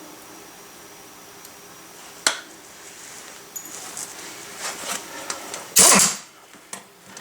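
Metal tools handled at the tractor wheel: a sharp click about two seconds in, then scattered clinks of sockets and lug-nut hardware, and a louder half-second metallic clatter near the end.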